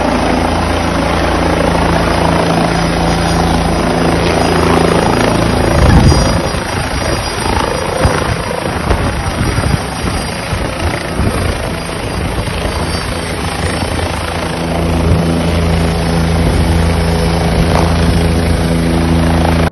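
Helicopter running close by, a steady hum with its rotor and engine tone over a rush of noise. About six seconds in there is a loud surge, and the steady tone breaks up for several seconds before settling again.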